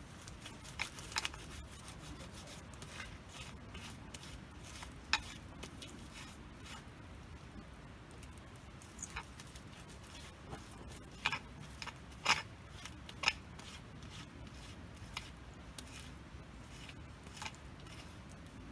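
Wood campfire crackling: irregular sharp pops and snaps over a low steady hiss, with a few louder pops a little past the middle.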